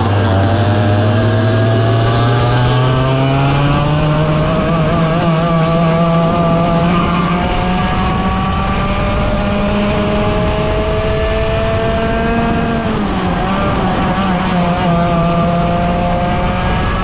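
A 100cc two-stroke racing kart engine under hard acceleration, its pitch climbing slowly for several seconds. The pitch falls sharply about thirteen seconds in, then climbs again.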